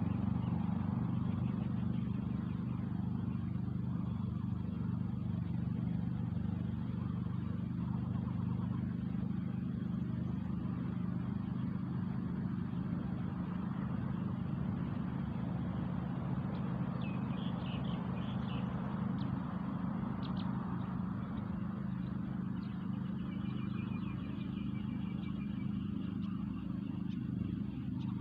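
An engine running steadily with a low, even hum. A few faint high chirps come in during the second half.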